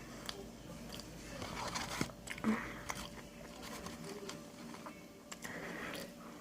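A person chewing and biting food close to the microphone: irregular crunches and wet mouth clicks, loudest about two seconds in.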